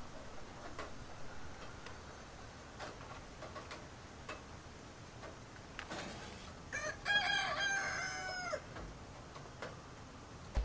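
A rooster crowing once, about seven seconds in, with a long held call that falls at the end. Faint scattered clicks are heard around it.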